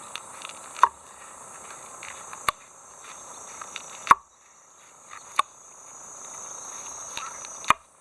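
Steady chirring of insects with five sharp knocks spread over the stretch, one every second or two.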